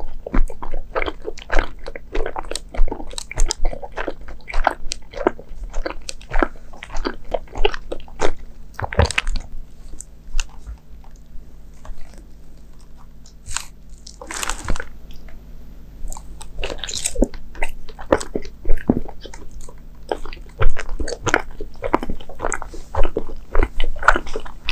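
Close-miked mouth chewing soft Japanese sweets such as mochi: a dense, irregular run of wet clicks and smacks, with a louder noise lasting about half a second around two-thirds of the way through.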